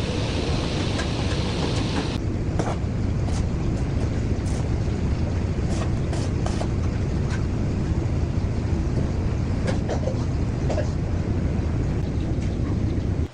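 Tractor engine running steadily, with light clicks over it.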